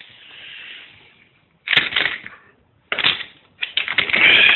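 Rustling, crackly handling of a small found container as it is picked up and fumbled open. There are short bursts about two and three seconds in, then denser rustling with fine clicks near the end.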